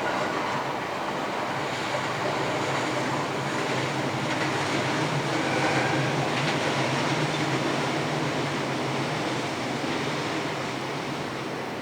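A train passing, a steady rushing rumble that builds to a peak about halfway through and then fades away.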